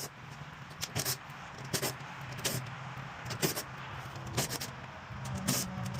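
A string of short, sharp clicks about once a second as screws are taken out of a microwave's metal casing, over a steady low hum.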